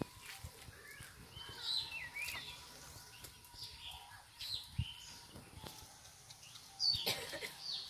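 Small birds chirping, a scatter of short high chirps and calls, with a sharp knock about seven seconds in.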